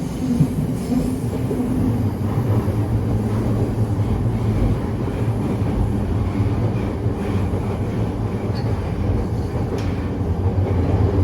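E231 series 1000 train running through a tunnel: a steady loud rumble of wheels on rail, with the clatter of the wheels striking rail joints echoing off the tunnel walls.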